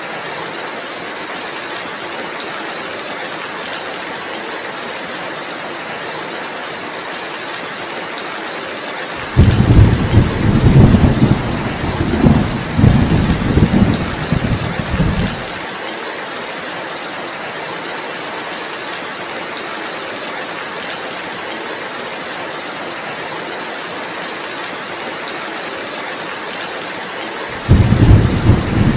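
Heavy rain falling steadily. About nine seconds in, a deep rumble of thunder starts suddenly, lasts about six seconds and cuts off abruptly; a second rumble begins near the end.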